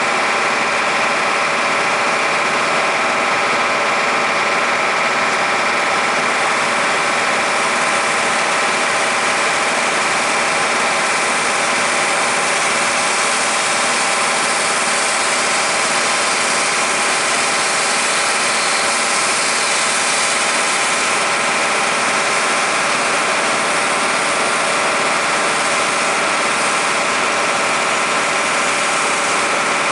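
1977 International fire engine's engine running steadily while driving its water pump: a constant drone with a steady hiss over it.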